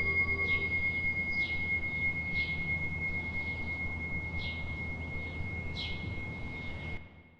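Meditation bell ringing on with a long, high sustained tone after a strike, its lower overtones fading within the first second. Birds chirp every half second to a second over a low background rumble, and all the sound cuts off suddenly about seven seconds in.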